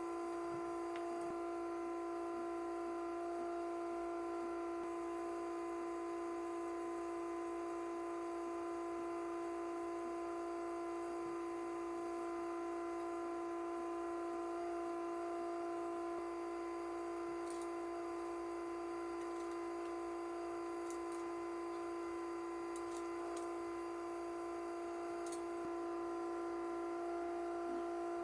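A steady electronic drone of several held pitches at an even level, one of the higher pitches dropping out about five seconds in.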